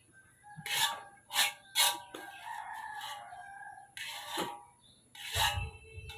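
A drawn-out bird call of about a second, beginning about two seconds in, among several sharp clicks or knocks.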